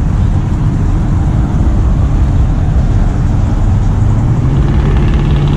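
A car engine running loudly at low revs close by, with a steadier low hum from about four seconds in.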